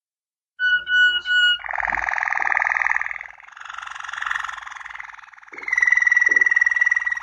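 Waterslager (Malinois) song canary singing, starting about half a second in: a few short clear whistled notes, then fast rolling trills, then a long held whistle near the end.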